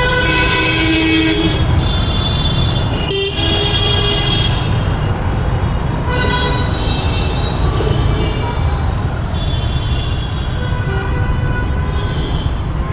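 Vehicle horns honking again and again in city traffic, several held toots coming and going every few seconds, over a steady low rumble of traffic heard from a moving motorbike.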